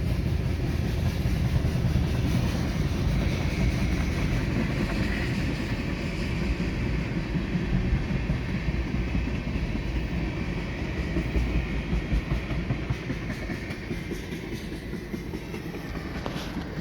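Freight train cars rolling past: a steady rumble with the clatter of steel wheels over the rail joints, easing slightly near the end.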